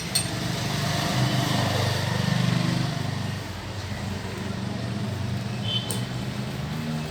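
Suzuki Gixxer 150's single-cylinder engine running at idle, picking up slightly from about a second in and settling back down about three seconds in.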